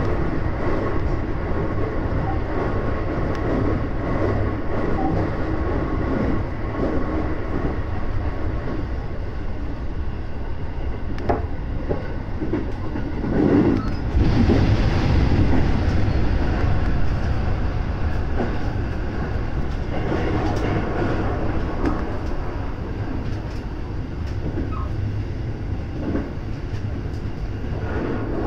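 Running noise of a JR West 223 series electric train heard inside its leading car: a steady wheel-on-rail rumble with a few faint clicks. About halfway through it swells and stays louder for several seconds as the train runs through a short tunnel.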